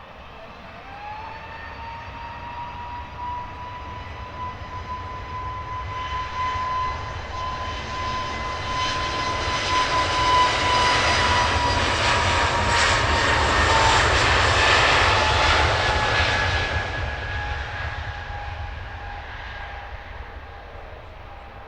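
Jet airliner passing by: a high engine whine over a broad roar builds to a peak about two-thirds of the way through, then fades. The whine steps up in pitch about a second in and drops slightly as the aircraft goes past.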